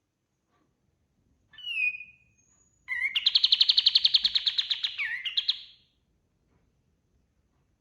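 Kapas tembak songbird singing: a short phrase of falling notes ending in a held whistle, then a fast, even trill of about ten notes a second lasting some three seconds.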